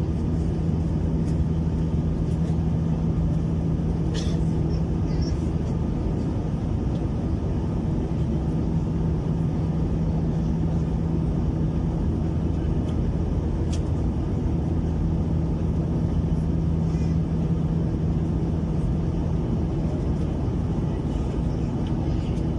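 Steady cabin noise inside an Airbus A321-200 airliner: an even engine and airflow drone with a constant low hum, and a few faint ticks.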